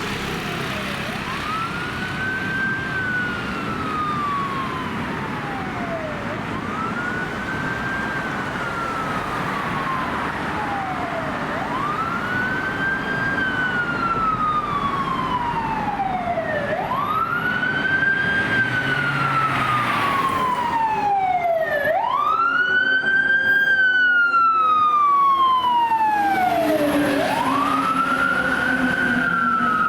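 Fire engine siren on a wail, sweeping up quickly and falling slowly about every five seconds, the sign of an engine responding to an emergency call. It grows louder toward the end as the engine approaches.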